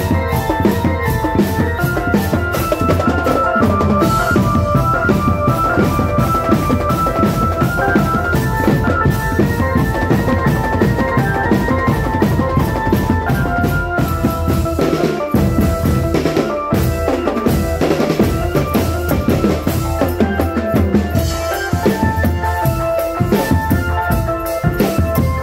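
Marching drum band playing: fast, continuous bass and snare drumming with a melody line carried over the beat.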